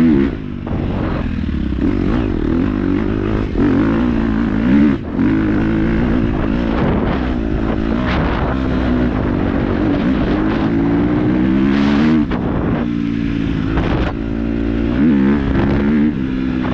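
KTM 250 dirt bike engine running on the throttle, its pitch rising and falling over and over as the rider opens and closes the throttle.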